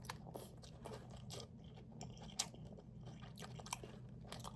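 A person chewing food close to the microphone, faint, with irregular small clicks of the mouth and jaw.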